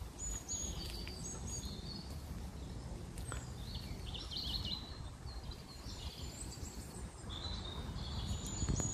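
Small songbirds chirping and singing in short, high phrases, several in turn, over a steady low rumble.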